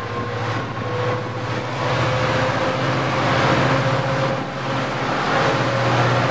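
Metrolink commuter train with an MP36PH3-C diesel locomotive pulling in, with no bell or horn: a steady low engine hum and rolling noise, with a faint steady tone above it. The hum strengthens about three seconds in.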